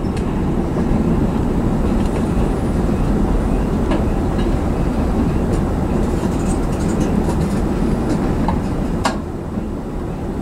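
Freight train of covered hopper cars rolling slowly past on jointed track: a steady rumble of steel wheels on rail, broken by a few sharp clicks and clanks, the clearest about four and nine seconds in.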